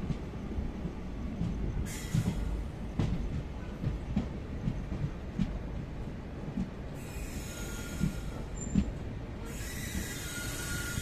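Passenger train running over the tracks, heard from aboard: a steady low rumble with irregular knocks from the wheels on the rails. High-pitched wheel squeal sets in about seven seconds in, and again near the end.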